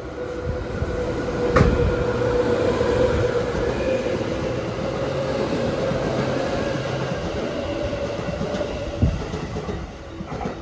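A JR West 221 series electric train passes through the station on the near track without stopping. Its wheel and motor noise swells at the start, with a sharp clack about a second and a half in and a steady whine under the rumble. The noise eases near the end as the last car clears.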